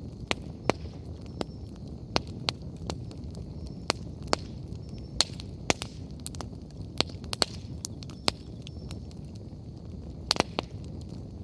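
Wood fire burning: irregular sharp pops and crackles from the burning firewood over a steady low rustle of the flames, with a quick cluster of pops near the end.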